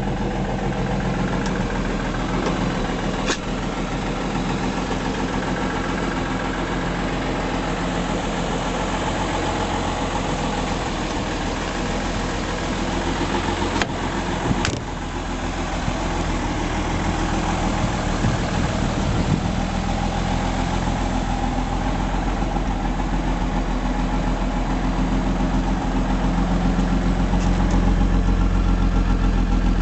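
Mercedes-Benz M129 fuel-injected straight-six running steadily at slightly raised idle, during flushing of its mechanical fuel injection. It gets a little louder in the last few seconds.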